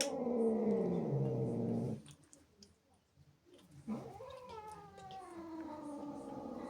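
Angry domestic cat yowling: a long drawn-out howl that falls in pitch and stops about two seconds in, then after a short pause a second howl that rises sharply and slowly falls.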